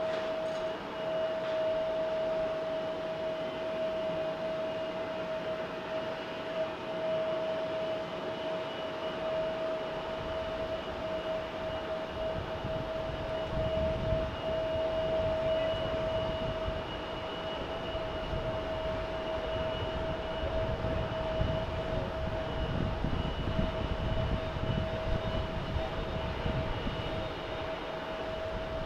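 Jet airliner engines: a steady whine, with a deep rumble building up about ten seconds in and continuing.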